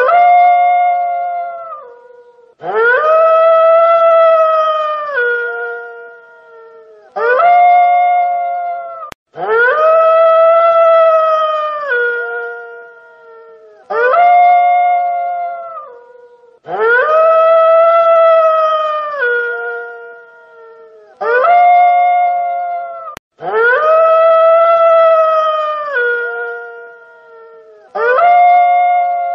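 Wolf howling over and over, nine howls in all. Each howl is held steady on one pitch and then drops lower at its end, and long and short howls alternate in an evenly repeating pattern.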